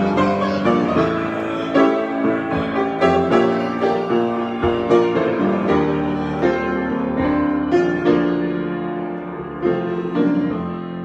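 Solo piano improvisation: chords and melody notes played continuously, growing sparser and softer near the end.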